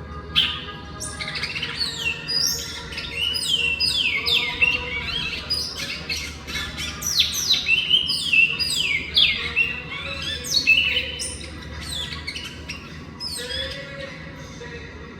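Great-billed seed-finch (bicudo) singing: a long run of quick whistled notes, many falling in pitch, with a short break near the end. A steady faint hum lies underneath.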